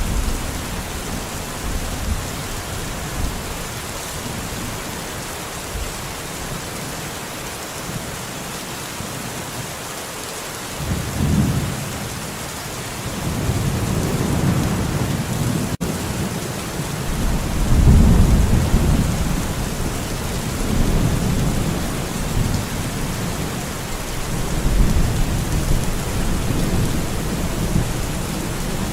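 Steady rain falling in a forest, with rolling thunder that rumbles in about a third of the way through and swells again several times. A very brief dropout interrupts the sound just past halfway.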